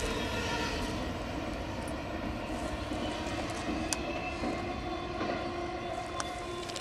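Norfolk Southern double-stack freight train rolling away, its steady rumble slowly fading, with a couple of sharp clicks about four and six seconds in.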